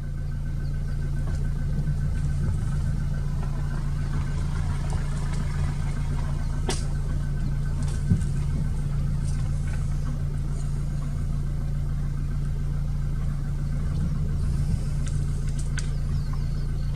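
Vehicle engine idling steadily, a low hum, with a single brief knock about eight seconds in.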